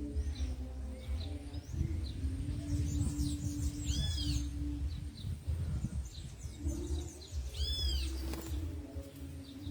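Wild birds calling around a fruit feeder: many short high chirps, with a loud arched whistled note about four seconds in and again near the end, over a low steady tone that breaks off now and then and a low rumble.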